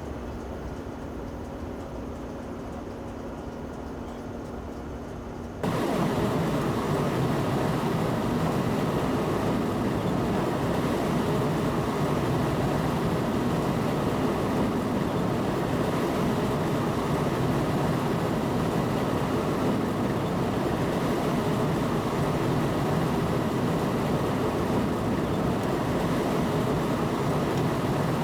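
Steady running noise of a train heard from inside the driver's cab, with a low hum at first. About five and a half seconds in it turns suddenly much louder and stays at that steady, fuller rumble.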